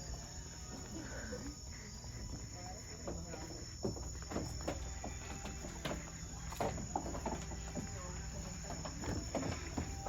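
Steady high trill of crickets and other night insects, with a scatter of light knocks from about four seconds in.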